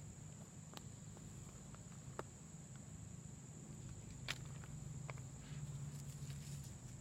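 A few small, sparse snaps and crackles from pine kindling in a fire pit as a freshly lit tinder fire starts to catch, over a faint steady high tone.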